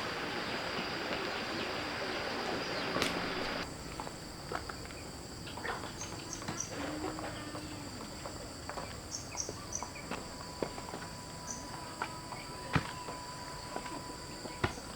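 Crickets trilling in a steady high tone that jumps higher about four seconds in, with scattered light taps and knocks throughout.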